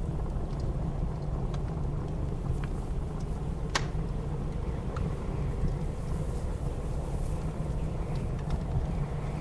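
Steady low rush of blizzard wind mixed with a wood fire crackling: scattered small pops, with one sharper crack a little under four seconds in.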